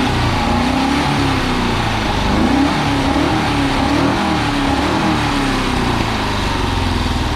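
Porsche 914 engine being revved several times, the pitch climbing and falling back in repeated blips before settling near the end. It is firing on only three cylinders because a spark plug has come out.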